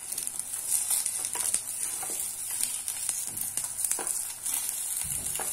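Vegetable kababs shallow-frying in a shallow layer of oil in a kadai, sizzling steadily, with a few short scrapes and taps of a wooden spatula against the pan as the kababs are turned over.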